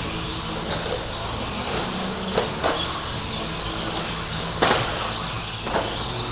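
Electric RC stadium trucks with 13.5-turn brushless motors racing round the track, a steady whine and rush of motors and tyres, with a few sharp knocks along the way.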